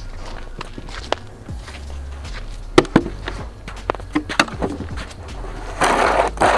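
Footsteps with scattered sharp knocks and clicks, the loudest a pair about halfway through, over a low rumble; a short burst of noise near the end.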